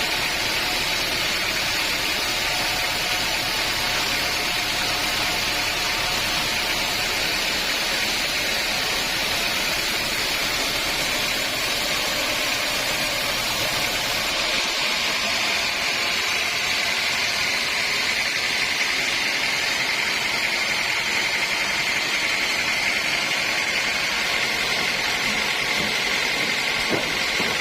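Sawmill saw machinery running steadily with a continuous noisy whine and a steady high tone; about halfway through the sound shifts and loses some of its low rumble.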